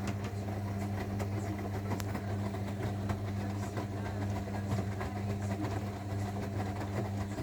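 Zanussi washing machine running: a steady motor hum with light scattered clicks, which stops abruptly near the end.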